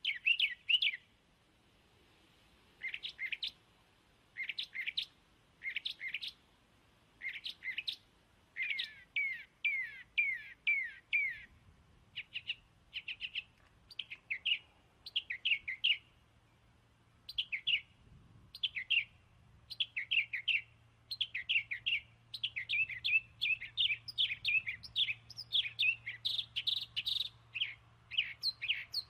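A small bird chirping over and over in quick runs of short, high, downward-sliding notes.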